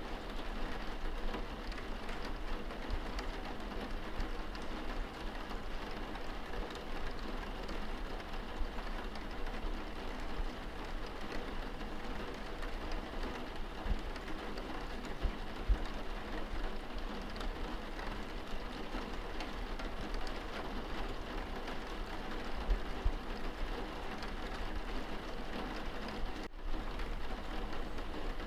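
Steady rain pattering on window glass, heard from inside the room: a dense, even spray of small drop ticks over a low rumble. A momentary gap near the end.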